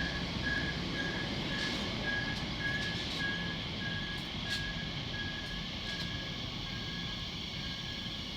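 An electronic warning beeper sounding a steady run of short high beeps, about two a second, growing slightly fainter, over the low rumble of a train at the platform.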